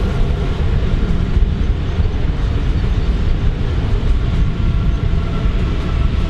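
Train running through a railway station: a loud, steady low rumble with faint thin whining tones above it.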